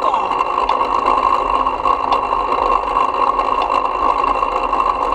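Steady, even mechanical running noise from a bike in motion, picked up by a GoPro mounted on the bike.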